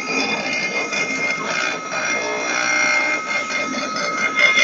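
24 V CNC milling spindle motor running steadily at speed, a continuous whine of several high tones over a light hiss. It runs almost without vibration.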